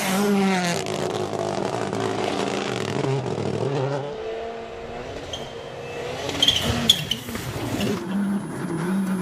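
WRC rally car engine revving hard, its pitch climbing and dropping again and again through gear changes, with a few sharp cracks about two-thirds of the way through.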